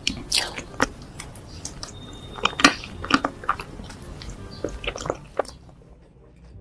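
Close-miked wet chewing and sticky lip smacks of someone eating soft Nutella-covered cake from a spoon, a quick string of sharp smacks. They stop about five and a half seconds in, leaving a much quieter stretch.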